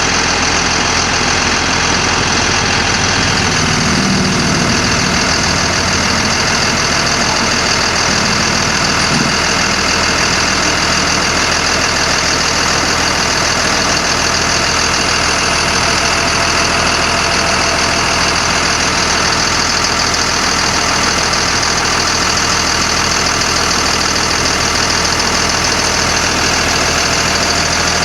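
Caterpillar diesel engine of a 1991 GMC Topkick bucket truck idling steadily.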